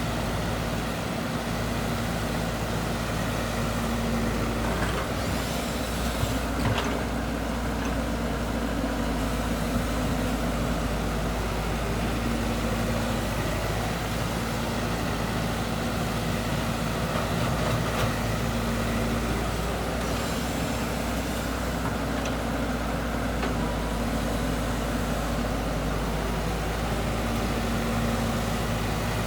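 Heavy earthmoving machine's engine running steadily, its tone swelling and easing every few seconds, with a few brief knocks about six to seven seconds in.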